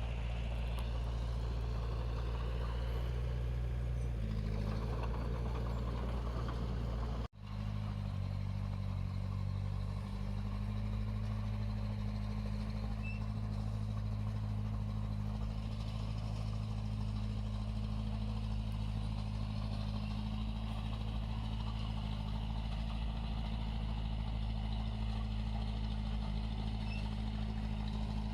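Heavy-equipment diesel engine running steadily with a low hum. About seven seconds in, the sound drops out for an instant and comes back with a slightly different engine note.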